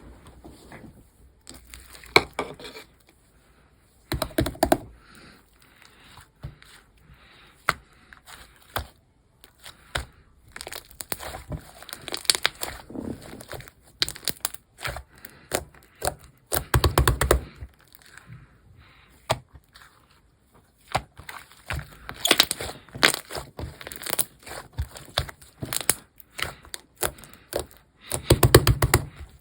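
Hands squishing, stretching and poking a mint-chocolate slime, making dense irregular crackling pops and clicks, with a few louder wet squelches, for example about 17 seconds in and near the end.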